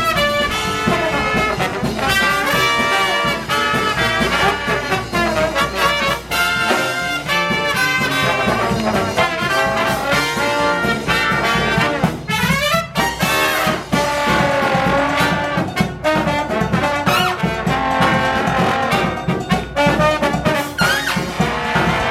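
Live brass band playing a lively, jazzy tune, with a steady low bass line under the higher brass and a rising glide in pitch about twelve seconds in.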